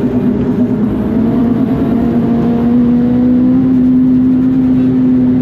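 Mitsubishi Colt R's turbocharged four-cylinder engine running hard under load. Its pitch climbs slowly over the first few seconds, holds steady, and eases off slightly near the end.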